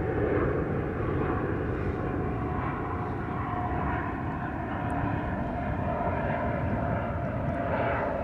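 Propeller aircraft engine running steadily during take-off close by: a constant drone with a faint steady tone, over a low rumble of wind on the microphone.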